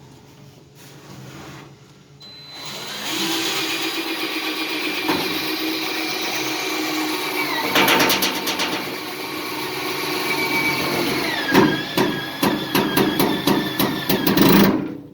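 Power drill/driver motor running on a screw, its pitch dropping twice as it loads up, with a run of sharp knocks and clicks through the last few seconds as the screw binds.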